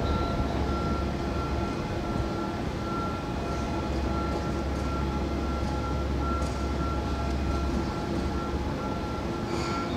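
Sagami Railway electric commuter train running through the station, a steady rumble with a thin steady tone above it.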